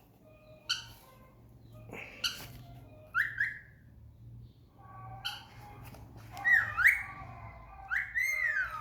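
A pet bird calling: a few sharp clicks and short whistled notes, then louder swooping whistles that dip and rise in pitch in the last couple of seconds.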